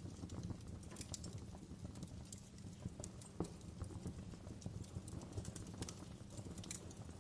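Wood fire crackling in a fireplace: irregular sharp snaps and pops, one sharper pop about three and a half seconds in, over a steady low rush of flame.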